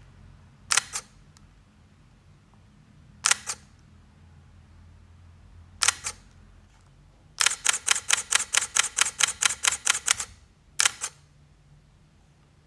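Leica digital camera shutter firing: four single shots, each a quick double click, and in the middle a continuous burst of about fourteen shots in under three seconds.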